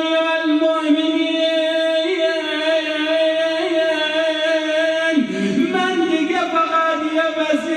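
A man's voice chanting a nai, a Shia Arabic sung lament, drawing out long held notes with little break. The pitch shifts about five seconds in.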